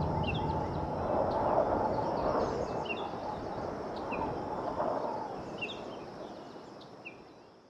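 Outdoor forest ambience with a bird giving short chirps several times over a steady background hiss, the whole slowly fading out near the end.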